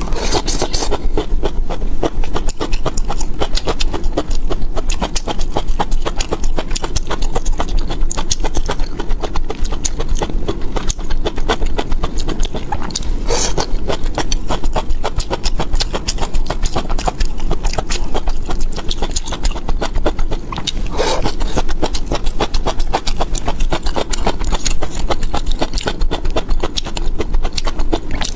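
Close-miked chewing of stir-fried bamboo shoots with green peppers: a dense, unbroken run of quick wet mouth clicks and smacks.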